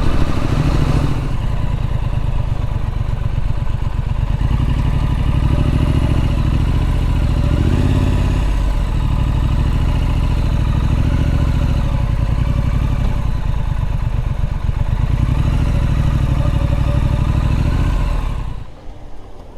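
Triumph Street Scrambler's 900cc parallel-twin engine running while riding, its revs rising and falling, with a brief dip about eight and a half seconds in. The engine sound drops away sharply near the end.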